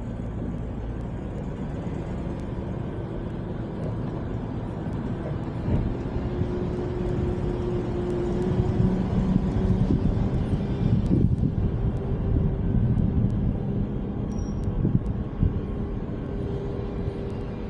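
A car driving: steady engine and road noise, with a hum at a steady pitch joining about six seconds in and the noise swelling a little in the middle.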